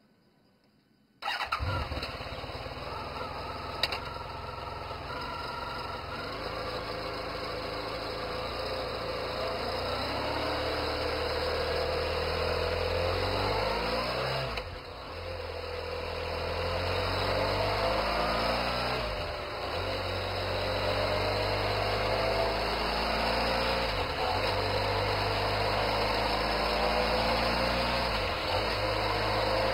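Honda motorcycle engine with the DCT automatic dual-clutch transmission running; the sound cuts in about a second in. The engine note climbs gradually, with brief dips and drops in pitch four times, as the dual-clutch transmission shifts gears.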